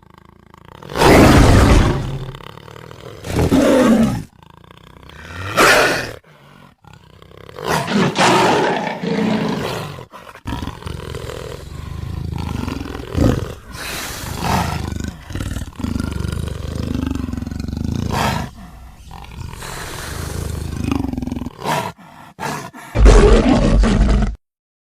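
A string of big-cat roars and growls edited one after another, drawn from tigers, leopards and jaguars among others. Several short, loud roars come first, then a longer stretch of rumbling growls, and a last loud roar cuts off abruptly near the end.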